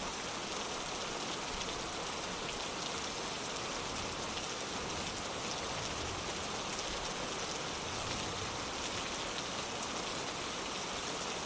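Steady, heavy rain pattering on a surface, with no thunder in this stretch.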